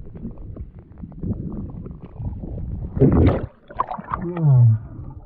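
Muffled water noise around a diver in a river: a low rumble with small clicks and knocks, then about three seconds in a loud short rush of water or breath. Just after it comes a brief vocal sound falling in pitch.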